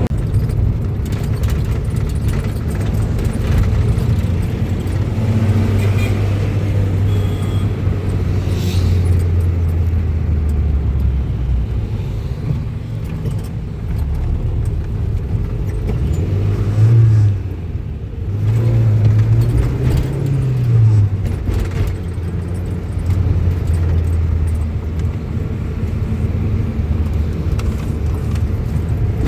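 A road vehicle's engine running, a steady low hum whose pitch rises and falls a few times around the middle.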